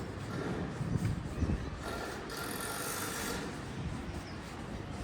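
Passing vehicle rumbling over street ambience, with a short hiss about halfway through.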